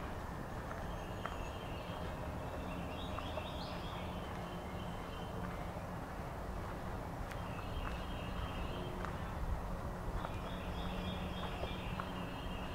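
Songbirds singing in short runs of quick repeated high notes, three times, over a steady low rumble of outdoor background noise.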